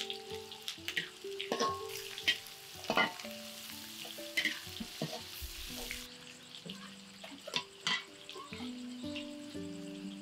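Spice paste and aromatics sizzling in hot oil in a steel wok, with a metal spatula scraping and clinking against the pan as it stirs.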